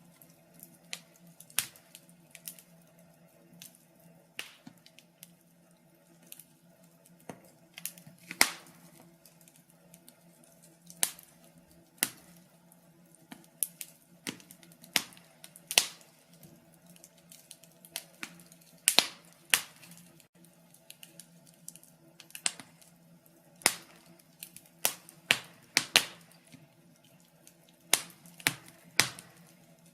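Wood fire crackling in a fireplace: irregular sharp snaps and pops, some much louder than others, over a faint steady low hum.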